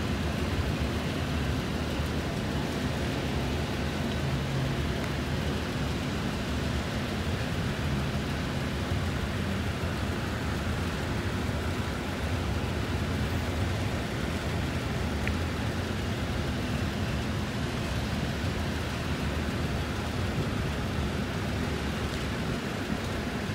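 Double-stack intermodal freight train rolling past: a steady low rumble of the well cars' steel wheels on the rails.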